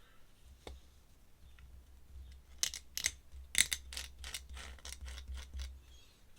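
A quick run of light clicks and taps from small hard objects handled on a desk, about a dozen over three seconds, the loudest a little past halfway.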